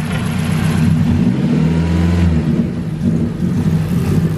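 Turbocharged Honda K-series four-cylinder engine running under held throttle. It revs up about a second in and drops back a second later. The MAP sensor is being unplugged, so the KPRO reads false boost and runs the engine rich and rough.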